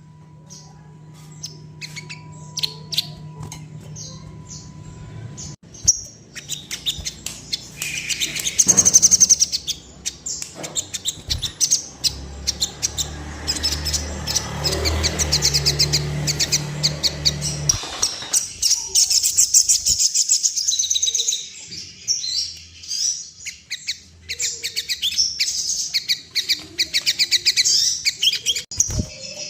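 Sogon (crimson sunbird) song used as a lure call: a few separate high-pitched chirps, then from about six seconds in a fast, dense twittering that runs on. It is meant to set a caged male displaying with fluttering wings and in breeding condition.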